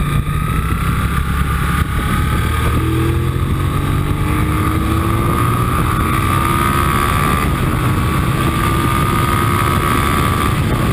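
Motorcycle engine accelerating under load, heard from a camera mounted on the bike, its pitch climbing slowly from about three seconds in. Wind and road noise rush underneath.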